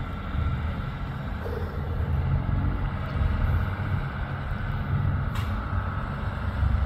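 Off-road 4x4's engine running steadily, with a single sharp knock about five seconds in.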